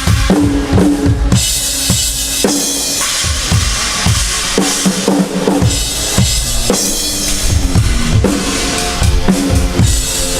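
Rock drum kit playing a beat: repeated kick drum and snare hits under a wash of cymbals, with held pitched notes underneath.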